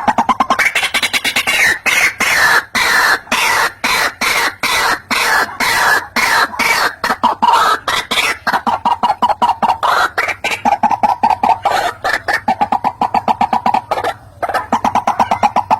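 White-breasted waterhen calling, a rapid string of harsh repeated croaks at several a second, with a short break near the end. It is a lure call used to draw waterhens to a trap.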